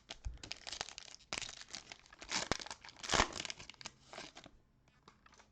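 Plastic wrapper of a 2021 Donruss trading-card pack crinkling and tearing as it is ripped open, a run of crackles with the loudest tear about three seconds in, dying away after about four and a half seconds.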